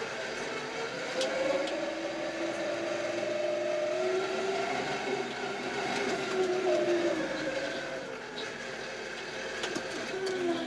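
Kioti RX7320 tractor's diesel engine and drivetrain running under load while pushing snow. A steady whine climbs gradually in pitch, then sags back down in the last few seconds.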